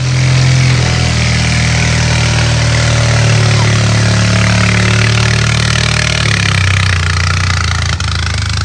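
Bobcat 732 skid steer's carbureted engine running steadily as the machine is driven on its first test drive, its pitch shifting slightly about six and a half seconds in. It runs with a faulty governor and a choke that is loose and flapping.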